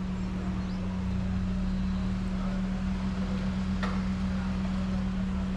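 Steady machine hum, one constant low tone over a rumble, with a single sharp click about four seconds in.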